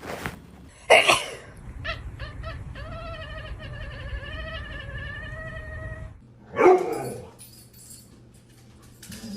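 A cat yowling: a loud cry about a second in, a long drawn-out call held from about three to six seconds, then another loud cry.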